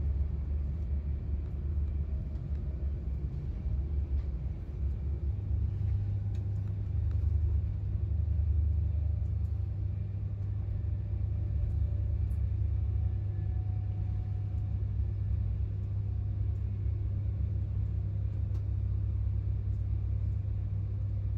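Inside the carriage of an Avanti West Coast electric train running at speed: a steady low rumble, joined about five seconds in by a steady low hum.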